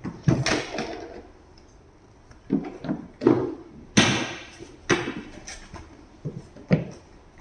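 A series of irregular knocks and bumps, some eight or nine, the loudest about four seconds in.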